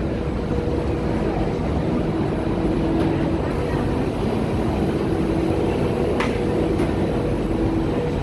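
Steady low rumble and electrical hum of standing electric passenger trains at a station platform, with a humming tone that comes and goes. A single sharp click about six seconds in.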